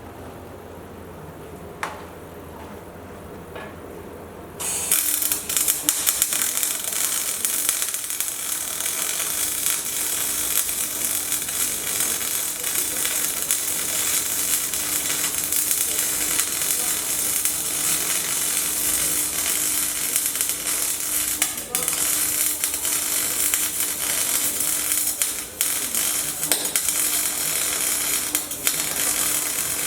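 Electric welding arc struck about five seconds in, then burning steadily with a dense crackling sizzle and a steady low tone underneath. Before it, only a low hum and a single click.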